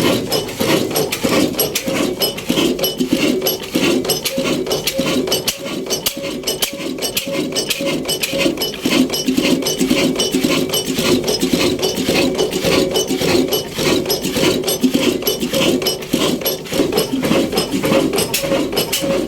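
Diesel engine running steadily with a fast, even metallic clatter.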